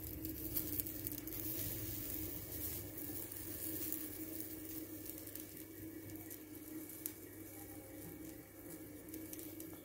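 Oats-and-egg omelette batter sizzling on a hot dosa griddle, a fine hiss with small crackles, over a steady low hum.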